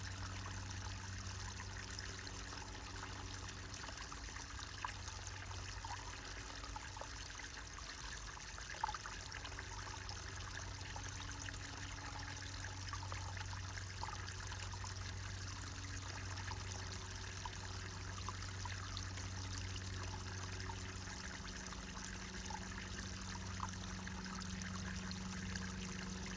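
Small brook trickling and splashing steadily, with the low steady drone of an airplane passing overhead underneath it.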